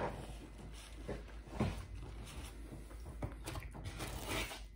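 Soft, irregular chewing of pizza, with faint wet mouth clicks. Near the end, a hand moving around in a cardboard pizza box.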